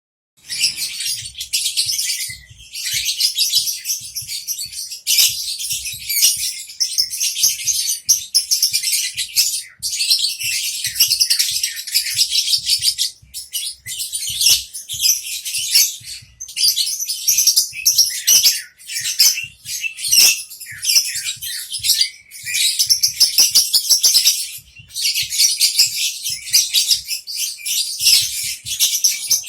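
A female lovebird chattering in long, rapid, high-pitched runs broken by short pauses; the hen is in heat.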